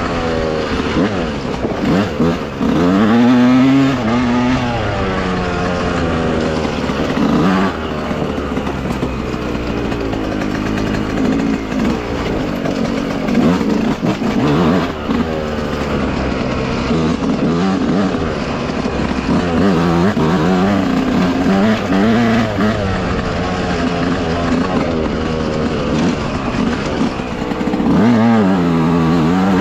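Dirt bike engine under way on a trail, its pitch climbing and dropping repeatedly as the throttle is opened and rolled off through the gears.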